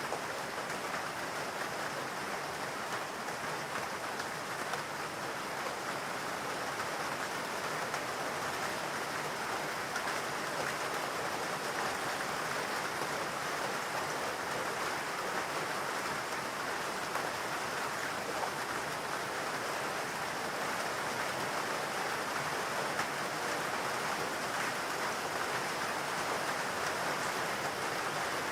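Steady rain falling on foliage and ground in a forest, an even patter with no thunder or single drops standing out.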